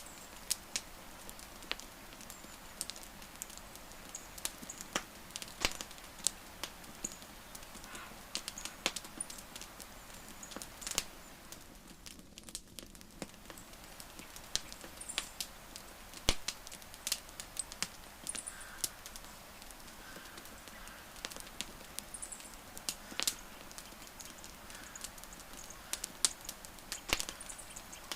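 Wood fire crackling: irregular sharp pops and snaps over a steady hiss of burning wood.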